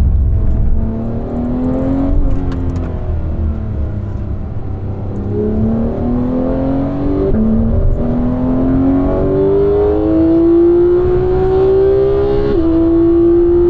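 Porsche 991 GT3's naturally aspirated flat-six engine under way: its pitch rises briefly, eases off, then climbs steadily through the gears, dropping at an upshift about seven seconds in and again near the end.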